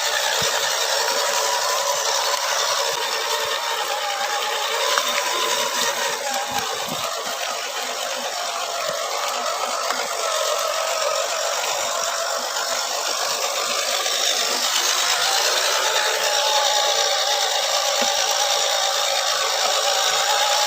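Axial SCX10 1/10-scale RC crawler's electric motor and geared drivetrain whining as it crawls, the pitch wandering up and down with throttle and load.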